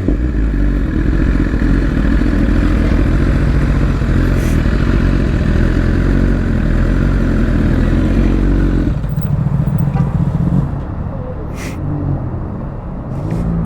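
Sportbike engine running with wind rush while riding. About nine seconds in the wind noise drops away, leaving a lower, steadier engine rumble.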